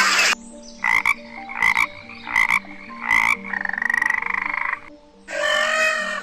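An animal calling in croaks: four short croaks about two-thirds of a second apart, then one longer croak made of fast pulses lasting over a second.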